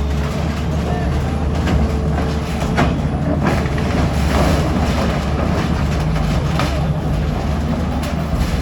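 A heavy engine running steadily with a deep rumble, with a few sharp knocks about three seconds in and again past the middle, as from demolition machinery at work.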